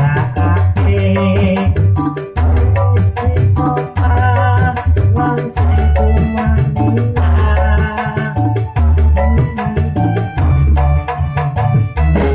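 Loud music played through a large outdoor-style sound system during a sound check, with very heavy pulsing bass and a fast, dense percussion beat over a melody.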